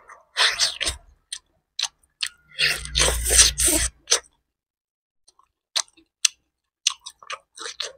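Close-miked chewing and gnawing on a bony piece of chicken, wet mouth sounds in bursts. The longest and loudest comes about three seconds in, followed by scattered short clicks.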